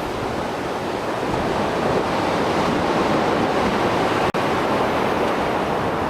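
Mediterranean surf washing onto the shore in a rough post-storm sea: a continuous rushing wash. There is a split-second dropout about four seconds in.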